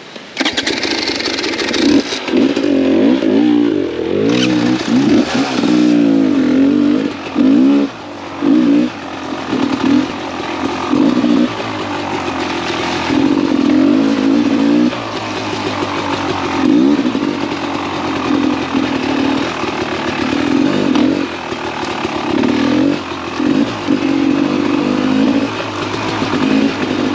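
Two-stroke engine of a 2017 Beta 300 RR enduro motorcycle running loud and revving up and down continually.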